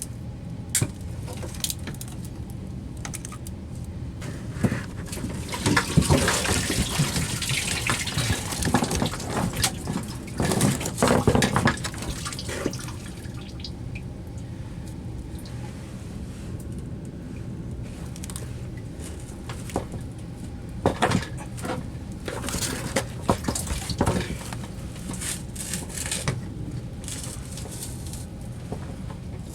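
Water sloshing and splashing in a sewage pump pit as the pump is handled, in two longer spells about six and twenty seconds in, with a few knocks, over a steady low hum.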